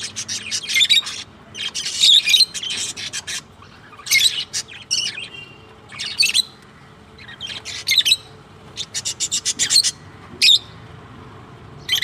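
Pet parrots chirping and squawking in irregular bursts of short, high calls, some in quick rapid-fire runs, with brief pauses between.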